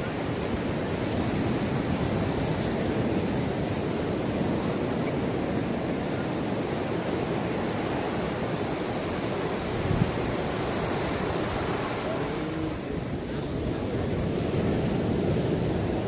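Ocean surf washing steadily onto a beach, with a brief low thump about ten seconds in.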